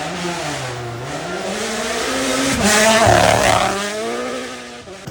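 Rally car engine accelerating hard as the car passes: the pitch dips early, climbs, drops at a gear change about two and a half seconds in, climbs again and is loudest just after, then fades away.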